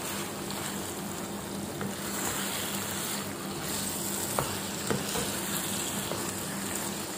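Mutton liver in a thick masala gravy sizzling in a frying pan while a spatula stirs it, with two faint clicks about halfway through.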